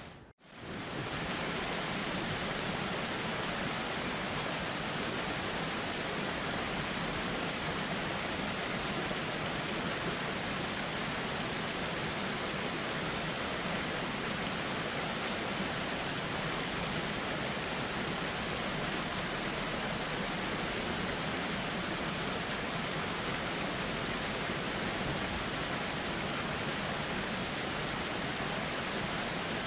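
River water flowing in a steady, even rush, cutting out for a moment right at the start and coming straight back.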